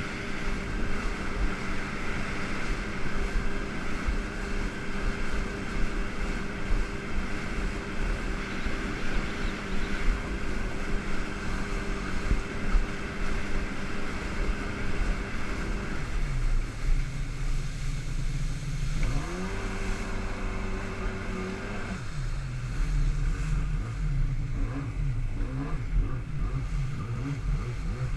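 Jet ski engine running at a steady high pitch, then dropping about halfway through and revving up and down repeatedly, its pitch rising and falling.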